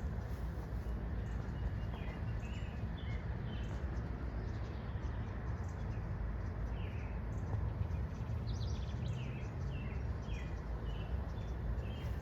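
Small birds giving short, quick chirps over and over, over a steady low rumble of outdoor background noise.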